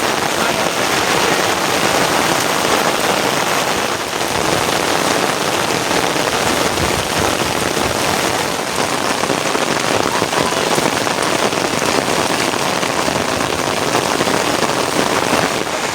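Steady rain falling, an even hiss of drops hitting surfaces.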